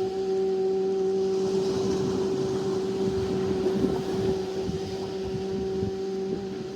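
A woman's voice holding the qigong liver healing sound 'xu' on a long exhalation, as one steady hummed tone that fades out about six seconds in.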